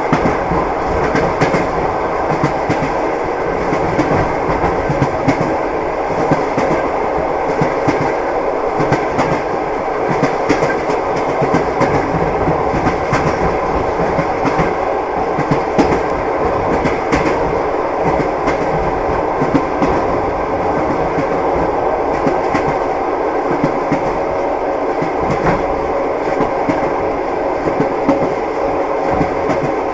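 Train wheels clicking over rail joints, a steady clickety-clack over the rumble of the carriage running along the track.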